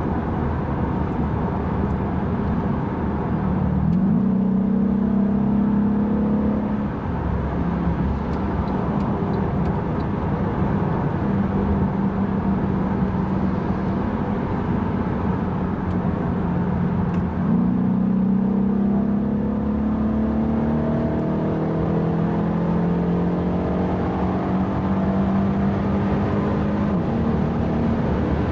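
Mercedes-AMG E63 (W212) V8 heard from inside the cabin while driving, over road and tyre noise. The engine note steps up and climbs under acceleration about four seconds in. It holds steadier for a while, then jumps up and climbs again from about two-thirds of the way through.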